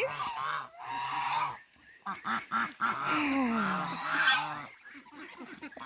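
Domestic geese honking, many short calls repeating and overlapping, with ducks quacking among them.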